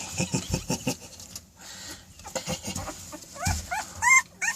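Nine-day-old American Bully puppies whimpering. Short, high, rising squeaky cries come in a quick run near the end, from a pup unsettled by a littermate lying on him.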